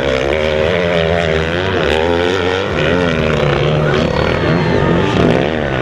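Motocross dirt bike engines revving hard, their pitch climbing and dropping again and again as the riders work the throttle and shift.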